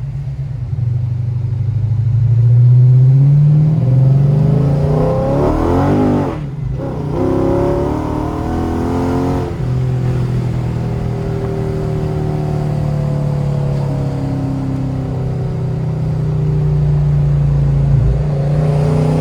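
Modified Chrysler SRT's engine and exhaust under hard acceleration, the pitch rising through the gears with a short break at a shift about six seconds in, then rising again. After about nine seconds it settles into a steady drone while cruising, picking up slightly near the end.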